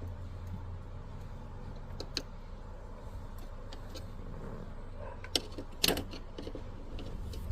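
Scattered sharp clicks of parts being handled while the shifter cable and its linkage are worked loose, with a short clatter about six seconds in, over a steady low hum.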